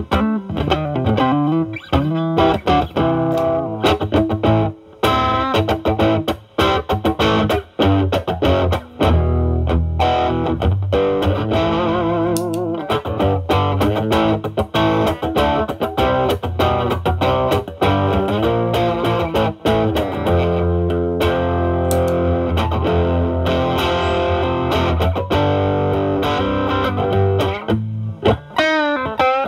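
Electric guitar, a Stratocaster with single-coil pickups, played through a Ceriatone Centura Klon-clone overdrive pedal into a Marshall Valvestate amp's drive channel, with the guitar's volume rolled back to clean up the overdrive into a lighter crunch. It plays picked single-note lines with string bends, and held low notes and chords in the middle.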